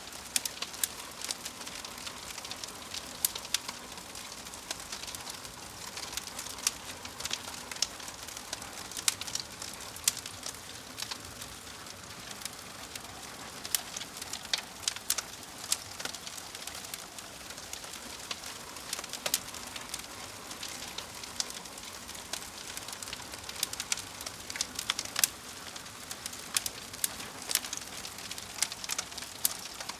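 Wood fire burning in a fireplace: a steady hiss with frequent sharp, irregular crackles and pops from the burning logs.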